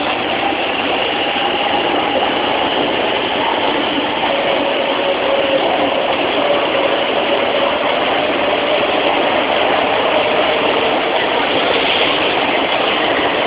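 A 500 Series Shinkansen train pulling out of the platform: a steady running noise with a whine from the train's motors that drops in pitch about four seconds in.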